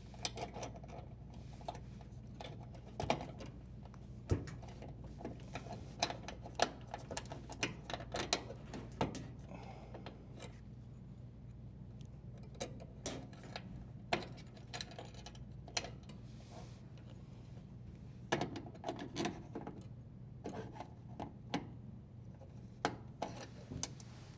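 Scattered light clicks and rubbing of hands threading and tightening a strain relief nut and handling the wires in a dishwasher's electrical junction box.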